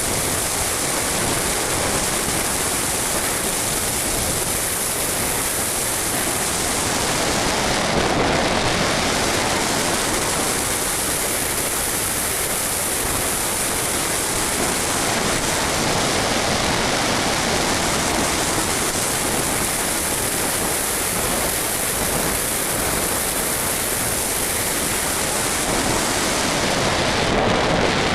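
Steady rush of airflow over the microphone of an onboard camera on an RC model plane in flight, swelling slightly a couple of times, with no motor tone heard.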